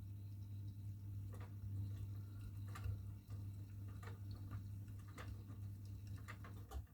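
Miele washing machine running: a steady low hum with irregular light clicks and taps over it.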